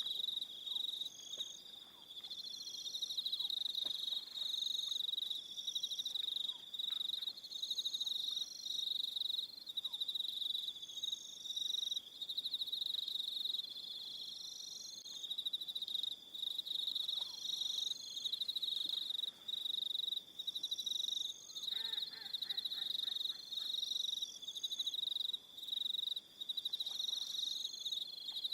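Evening chorus of crickets: a steady high trill with other crickets chirping in short repeated trains on top. About 22 seconds in, a brief lower call from another animal breaks in for a second or so.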